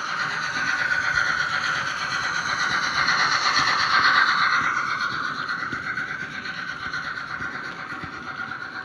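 Märklin H0 model BR 24 steam locomotive and its coaches running along the track, a steady whirring of motor and wheels on rails. It grows louder to about four seconds in, then fades as the train moves away.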